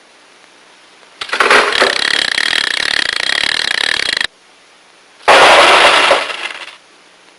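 Two loud, harsh bursts of noise from a cartoon's sound effects: the first lasts about three seconds and cuts off suddenly, and the second comes about a second later, shorter, and fades out. Steady soundtrack hiss lies underneath.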